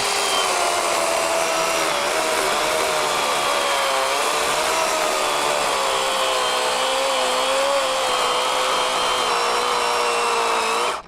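Cordless 40-volt Worx electric chainsaw with an 18-inch Oregon bar cutting through a fallen log. Its motor whine sags slowly in pitch as it labours in the cut, then cuts off suddenly at the end, with the battery almost dead.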